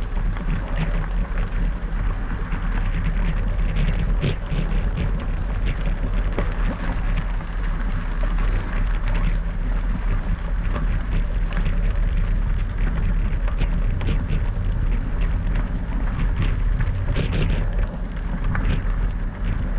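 Wind buffeting the microphone of a moving gravel bike, with a steady crackle of tyres rolling over gravel.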